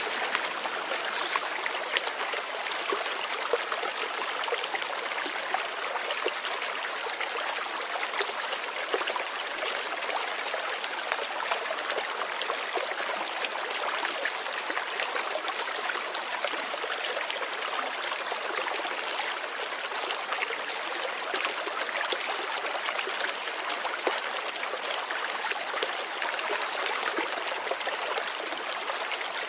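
Light rain falling steadily: an even, dense patter of many small drops.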